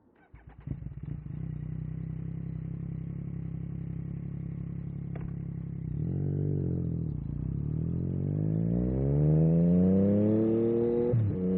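2022 Yamaha MT-09 SP's inline three-cylinder engine through an Akrapovic carbon racing exhaust, starting up and settling into a steady idle. About six seconds in it revs once, then climbs steadily in pitch as the bike accelerates, with a short dip near the end as it shifts gear.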